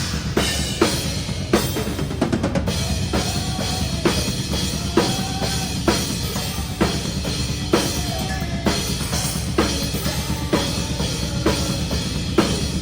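Metalcore band playing live, heard from behind the drum kit: sharp snare hits land on a steady beat over busy bass drum and a thick wall of distorted guitar and bass.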